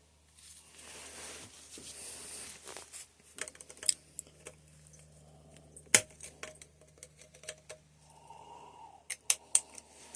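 Clicks, taps and scraping of metal tools and small parts being handled while a RockShox SID suspension fork's internals are taken apart. A soft rubbing comes first, then scattered sharp clicks, the loudest about six seconds in and a quick run of them near the end.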